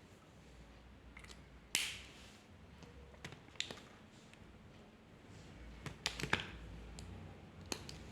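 A handful of light, sharp clicks and short scratches, irregularly spaced, the strongest about two seconds in and a cluster about six seconds in: drawing tools being handled and set down on a desk.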